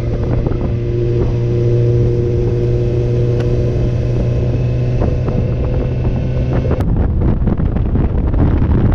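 Motorcycle engine droning steadily at cruising speed. About seven seconds in it gives way abruptly to wind buffeting the microphone.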